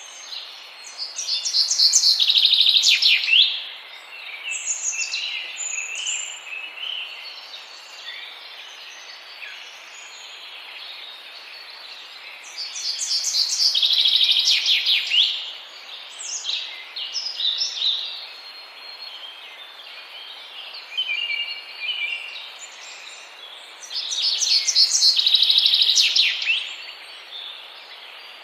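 A songbird singing a high, rapid trilled phrase about two to three seconds long, three times about eleven seconds apart, with shorter scattered chirps in between over a steady background hiss.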